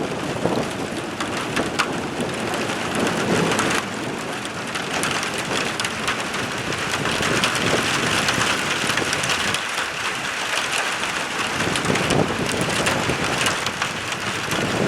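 Heavy rain from a summer thunderstorm, with a dense hiss and many single drops ticking close by. It grows heavier about five seconds in.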